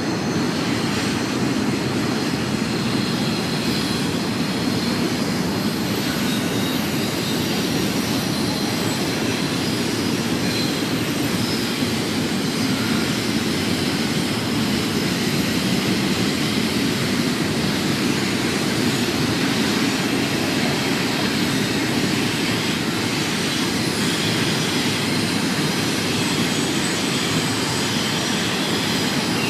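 BNSF intermodal freight train rolling past, a steady, unbroken noise of its wheels on the rails.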